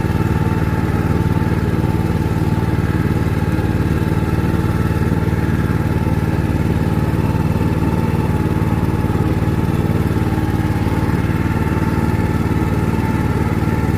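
Boat engine running at a steady, even pitch.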